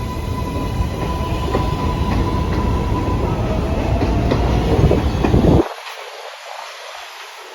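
An R188 subway train pulling out along elevated track. Its wheels clatter over the rail joints under a loud rumble, with a steady motor whine and then a whine rising in pitch. The low rumble cuts off abruptly about five and a half seconds in.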